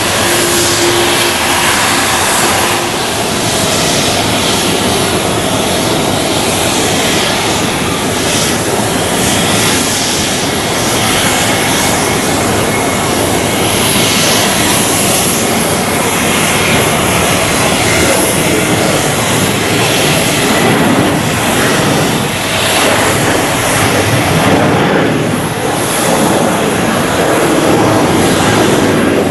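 Jet airliner engines near a runway, a loud steady noise with no clear rise or fall.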